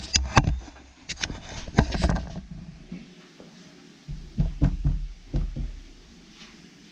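Sharp knocks and taps of hard objects in several clusters: just after the start, around one and two seconds in, and again between about four and five and a half seconds in.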